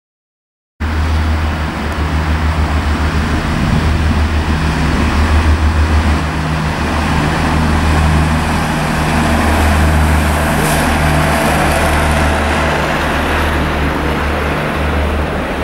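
A regional passenger train passing through a station. The sound starts abruptly about a second in: a loud, steady rumble of the train going by, with a faint rise in high hiss around the middle.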